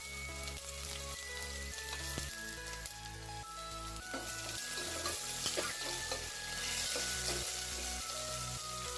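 Slit green chillies sizzling in hot tempering oil in a steel pot while a ladle stirs them, with a few sharp ticks in the middle. Background music with a steady beat plays underneath.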